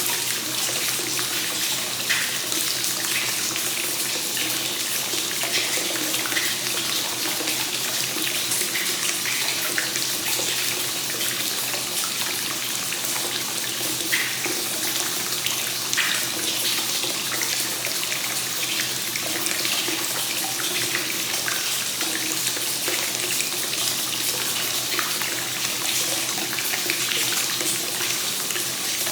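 Hot spring water pouring steadily into a bath and splashing on the surface, with small droplets spattering now and then.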